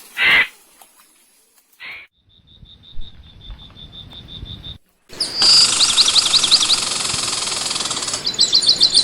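Wild birds calling: a loud harsh call, a shorter one, then a fast run of high pips. After an abrupt cut, repeated high chirps sound over a loud, steady hiss like insects or cicadas.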